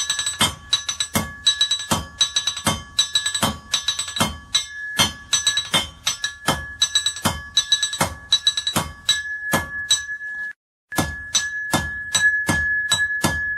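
Blacksmith's hammer striking iron on an anvil in a quick, steady rhythm, heavy blows with lighter taps between, and the anvil ringing with a high metallic tone after each strike. The strikes cut off briefly about ten and a half seconds in, then carry on.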